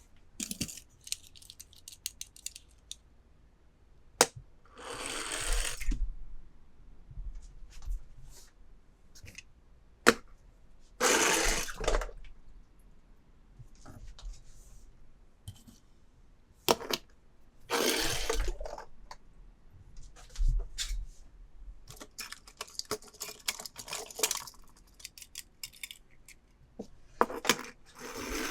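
Toys being unboxed by hand: plastic packaging rustles and crinkles in short bursts, with a few sharp clicks and a spell of rapid crackling near the end.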